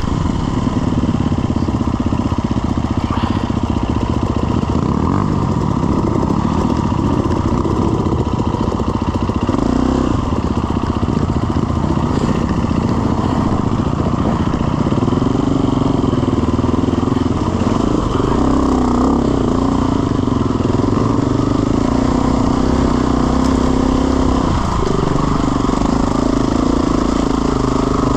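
Off-road trail motorcycle engine running continuously as it is ridden, its revs rising and falling.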